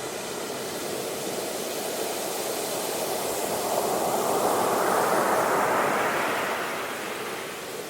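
Sea waves washing on a shore: one wave swells to its loudest about five seconds in, then draws back.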